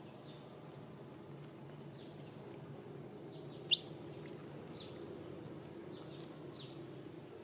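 Small birds chirping: short, scattered high calls, with one sharper, louder chirp about halfway through, over a steady low background hum.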